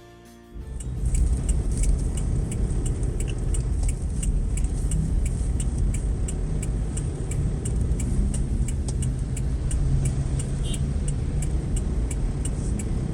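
Inside a moving car: steady engine and road rumble, with a regular ticking, several ticks a second, typical of a turn-signal indicator left on. The rumble comes up sharply about half a second in.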